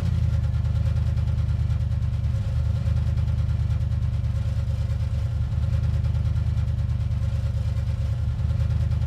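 Steady low engine drone that holds unchanged at an even level.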